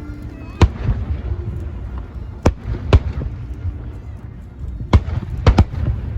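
Aerial fireworks bursting: about six sharp bangs at uneven intervals, two of them close together near the end, over a steady low rumble.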